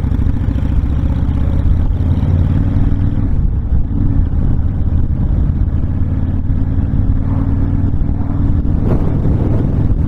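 Honda VTX1300's V-twin engine running steadily at cruising speed, with wind rushing past the open, windshield-less bike.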